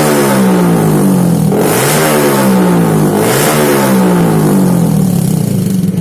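Yamaha MX King 150's single-cylinder four-stroke engine through an aftermarket R9 exhaust, blipped repeatedly on the throttle, its pitch rising and falling about every one and a half seconds. It drops back to a pulsing idle near the end.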